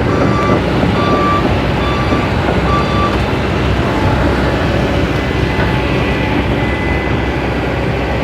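Heavy construction machine's engine running, with its backup alarm beeping four times at about one beep a second before falling silent about three seconds in.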